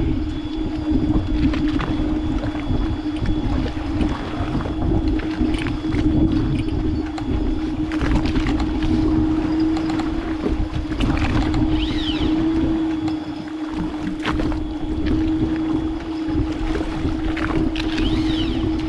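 Steady engine drone aboard a fishing boat: a constant hum over a low rumble, with scattered light clicks and knocks.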